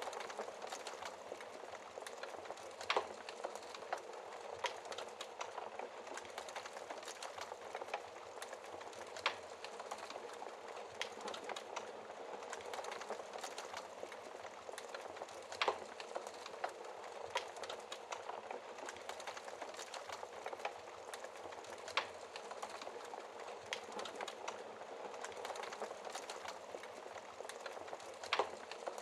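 Fire crackling steadily in a fireplace: a constant hiss with many small snaps and a louder pop every few seconds.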